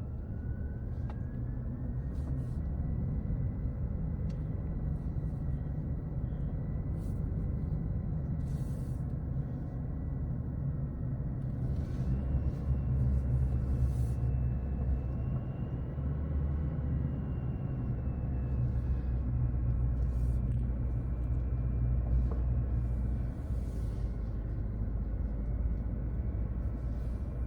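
Car engine and tyre noise heard inside the cabin while driving downhill: a steady low rumble, with a faint high whine that drifts slightly in pitch.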